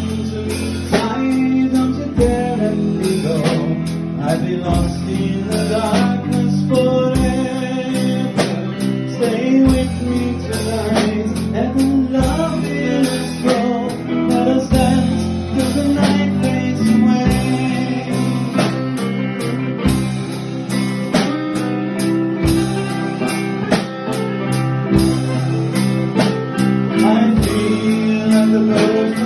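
A band playing a song live: electric guitar, bass and drums, with singing over them. Drum hits come at a steady beat.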